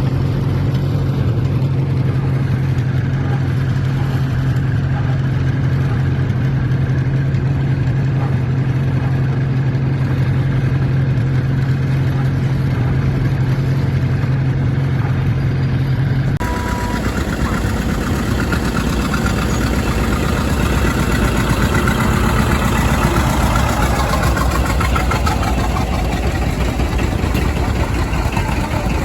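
Tractor engines running steadily, with a strong low hum. About two-thirds of the way through, the sound changes abruptly to a rougher, fuller engine noise.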